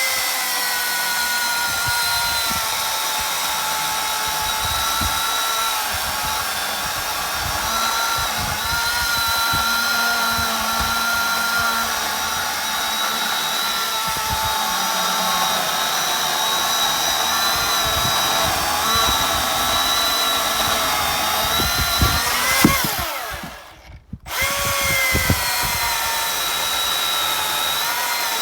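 Electric chainsaw running and cutting wood, a steady motor whine whose pitch sags and recovers as the chain bites. Near the end it winds down and stops for a moment, then starts up again with a rising whine.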